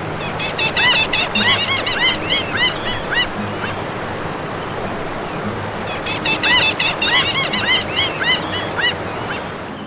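Birds giving short, repeated calls in two bouts over a steady rush of surf.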